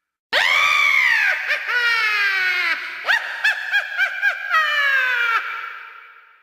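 Cackling witch laugh sound effect: a high shriek that falls in pitch, then a rapid run of short "heh-heh" bursts, ending in a falling cry that fades out in an echo.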